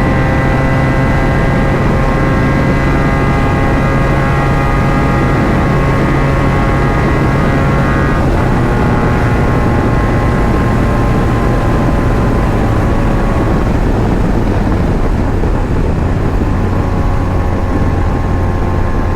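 Benelli Leoncino 500's parallel-twin engine running steadily through an Akrapovic aftermarket exhaust, loud, dropping slightly in pitch about eight seconds in and again about fourteen seconds in.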